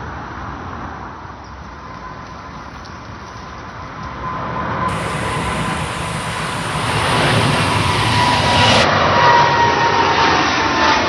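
Jet airliner passing overhead at full takeoff power: a roar that builds from about four seconds in, with a whine that falls slightly in pitch as it goes by.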